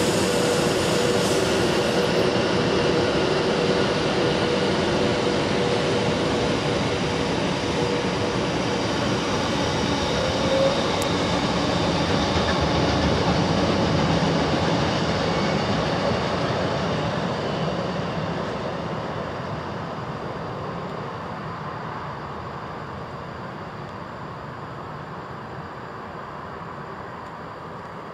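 Class 390 Pendolino electric train running along a station platform: a steady rail rumble with a faint whine for the first ten seconds, fading away over roughly the last ten seconds.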